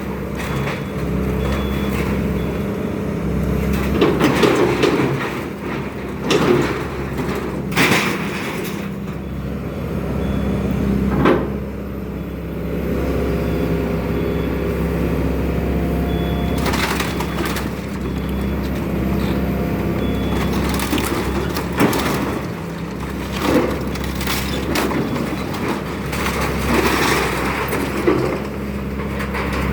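Excavator engine running steadily while building material cracks and breaks in demolition, with a sharp crack or crash every few seconds.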